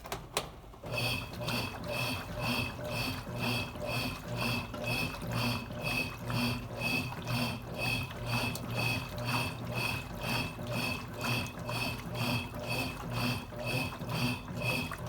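Consul Cargo 8 kg washing machine running, a click near the start and then the motor humming with a regular pulsing beat about twice a second, typical of the agitator working back and forth in a wash cycle.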